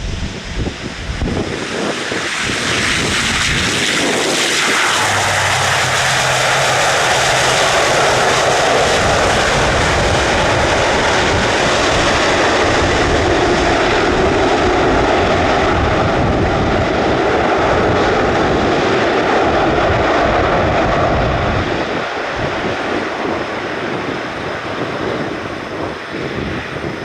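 Jet airliner landing: engine noise builds and its whine falls in pitch as it passes about four seconds in. A steady loud roar follows as it rolls out, then eases off about 21 seconds in.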